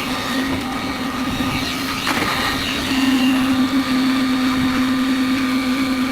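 Concrete mixer running steadily: a constant motor hum with a higher whine over a rough, noisy rumble.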